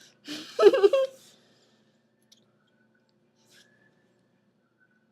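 A short voice sound in the first second, then quiet with two faint clicks.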